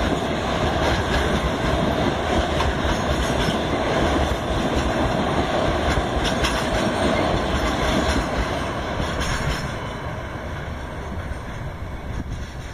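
Loaded bauxite wagons of a long freight train rolling past on the rails: a steady heavy rumble with clacking wheels. It fades from about ten seconds in as the end of the train passes and draws away.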